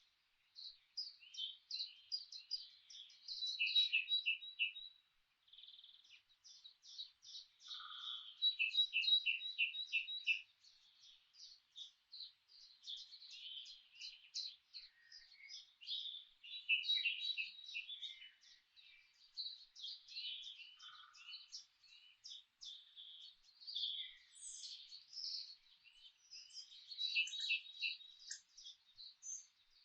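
Several songbirds chirping and singing at once, overlapping quick runs of short, high repeated notes that carry on with only brief lulls.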